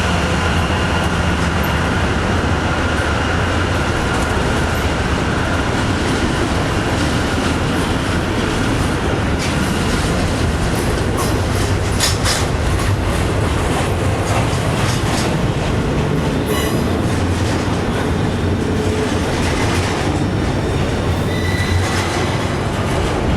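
Norfolk Southern freight train rolling past: a steady heavy rumble of locomotives and railcars. Wheels click and clank over the rail joints, thickest in the middle, with a faint high wheel squeal at times.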